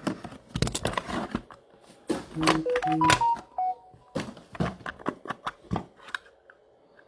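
Trading cards being handled, a string of sharp clicks and taps of card and plastic. About two and a half seconds in, a short run of electronic beeps steps through several pitches, like a phone or device alert.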